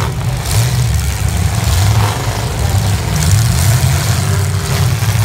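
Demolition derby cars' engines running loud and revving as the cars push and ram each other, a heavy steady rumble with repeated surges.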